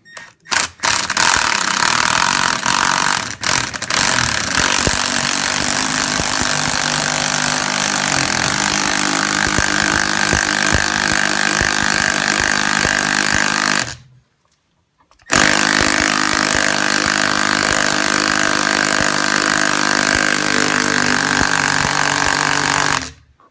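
Mini impact driver running, screwing down a home-made C-clamp bead breaker against a hard, dry-rotted motorcycle tire to break its bead. It starts with a few short blips, runs continuously, stops for about a second, then runs again until shortly before the end.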